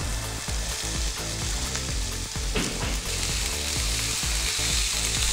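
Diced barbecue pork, broccolini and onion sizzling steadily in hot oil in a frying pan as they are stirred with a spatula.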